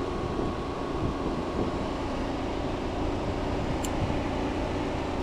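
Car's electric radiator cooling fan running steadily after the engine has been switched off, with a light tick about four seconds in.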